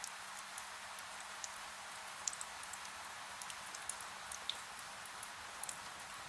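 Rain on a window: a steady hiss of falling rain with many scattered, irregular sharp ticks of single drops striking the glass.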